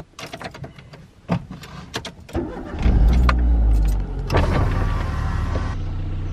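Ignition key clicks and rattles, then the first-generation Renault Twingo's engine turns over and starts about two and a half seconds in. It runs loudest for about a second right after catching, then settles to a steady idle.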